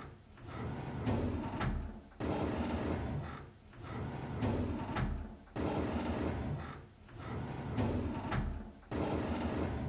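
Drawer being pulled open on its runners, a sliding, scraping rush with a knock near its end. It repeats as a loop about every three and a half seconds, three times over.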